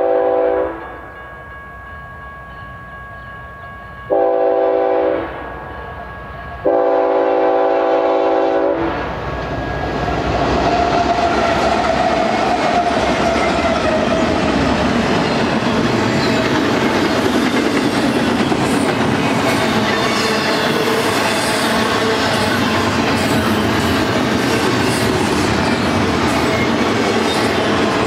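BNSF freight locomotive's air horn sounding for a grade crossing: the end of one blast, a short blast about four seconds in, and a long blast ending about nine seconds in, the close of the long-long-short-long crossing signal. Then the GE ES44C4 diesel-electric locomotive and its double-stack intermodal well cars pass close by, with steady rumble and wheel clatter on the rails.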